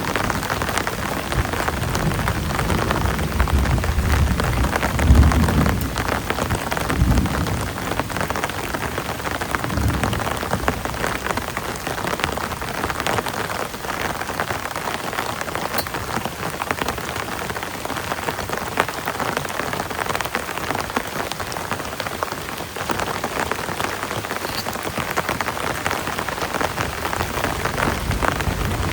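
Heavy rain falling steadily, a dense hiss of drops. During the first ten seconds it is joined by low rumbles, strongest about five seconds in.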